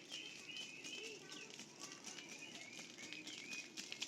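Birds chirping in short, wavering high calls repeated throughout, with a few scattered light clicks.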